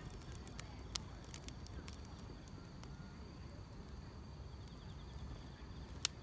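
Wood fire crackling, with a few sharp pops over a low rumble, the loudest pop near the end, and grass insects trilling faintly and steadily.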